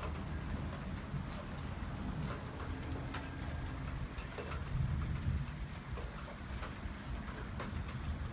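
Heavy thunderstorm rain falling steadily, with many sharp ticks of individual drops striking nearby surfaces.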